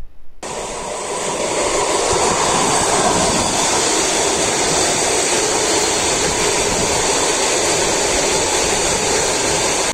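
Suburban electric multiple-unit train running past: a steady rush of wheel-on-rail noise that builds over the first couple of seconds and then holds level.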